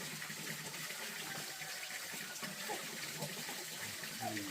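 Water running steadily, a continuous even splash with no breaks.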